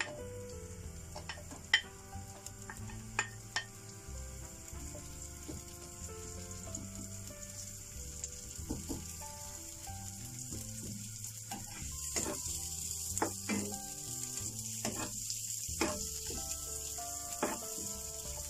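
Sliced shallots sizzling in hot oil in a frying pan while a spatula stirs them, scraping and knocking on the pan, with a sharp knock about two seconds in. The sizzle grows louder about twelve seconds in.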